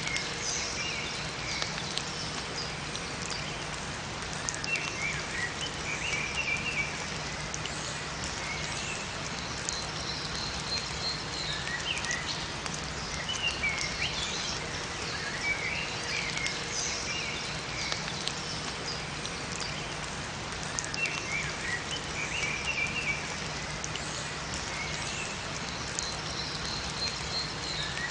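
Steady rain falling in a forest, with small birds chirping in short phrases every few seconds.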